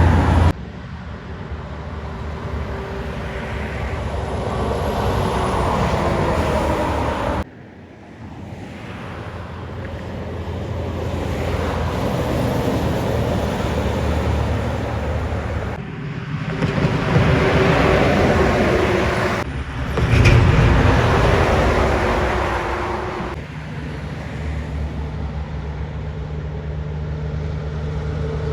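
Heavy trucks passing one after another on a highway, diesel engines running under tyre and road noise that swells as each one nears. The sound changes abruptly several times where separate passes are joined.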